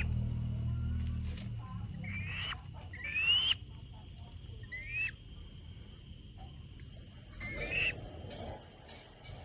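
A falcon calling: four short, sharp calls that each sweep upward in pitch, spaced a second or two apart, the second the loudest. A low rumble dies away in the first second and a half.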